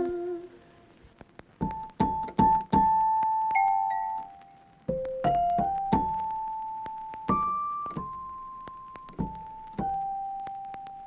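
Background music: a slow, single-note piano melody begins about a second and a half in. Each note is struck and left to ring out and fade.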